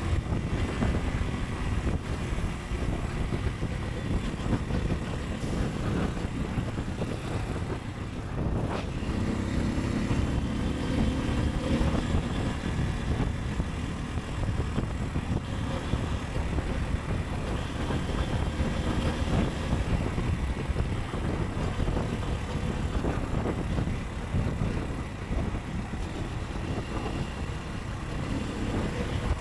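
Motorcycle engine running under a steady low rumble of wind and road noise while riding in city traffic. About eight seconds in, the engine note rises for a few seconds as it speeds up.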